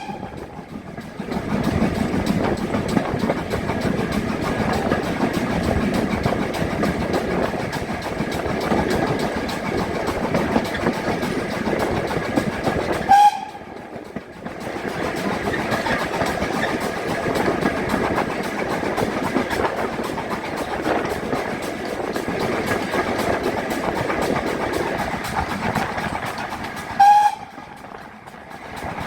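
Model trains running on an exhibition layout, a steady rumble and clatter of small wheels on track under the hall's background noise. Three short, loud tones come at the start, about 13 seconds in and near the end, each followed by a brief drop in the background.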